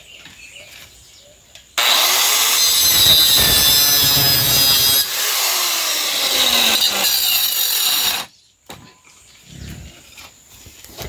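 A power saw cutting wood for about six seconds. It starts abruptly about two seconds in, shifts in pitch partway through and stops abruptly near the end.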